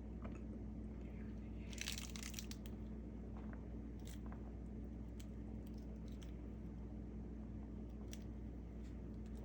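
Crunching and crackling of salad ingredients being handled in food preparation: a burst of crackles about two seconds in, then scattered single crisp clicks, over a steady low hum.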